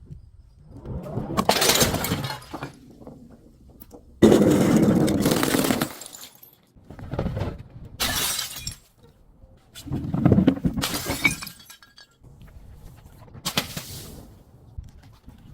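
Glass breaking and being crushed in about six separate crunching bursts, the loudest starting suddenly about four seconds in and lasting nearly two seconds.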